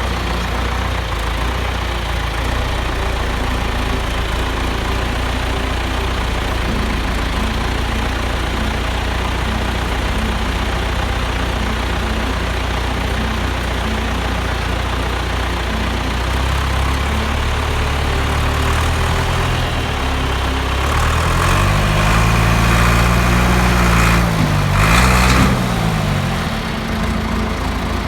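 An engine running steadily close by, revving up and back down twice about three-quarters of the way through.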